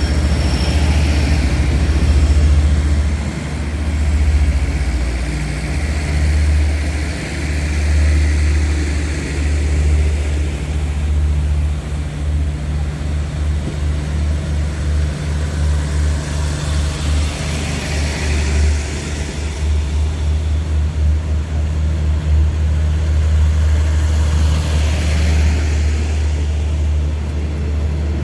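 Diesel train engine rumbling steadily at low pitch, unsteady and pulsing for a stretch in the middle, with a faint hiss rising and falling twice in the second half.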